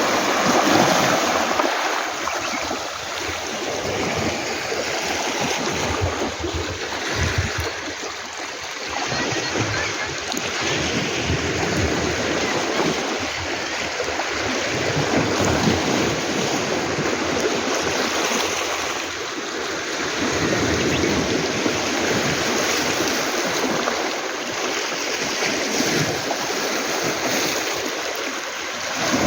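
Surf washing onto a beach of round pebbles, a steady rush of water that swells and eases every few seconds.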